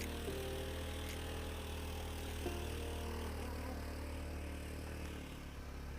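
Steady low drone of a vehicle's engine on the road, under soft background music whose held notes fade out about three seconds in.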